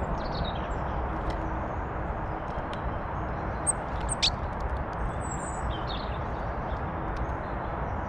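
Small garden birds giving scattered short, high chirps, the loudest a sharp single chirp a little after four seconds in, over a steady low background noise.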